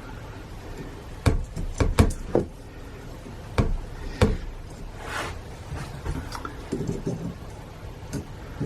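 Work on a dismantled starter motor: tools and metal parts knocking and clinking in sharp taps, about six in the first half, then a short rushing scrape and softer handling noises.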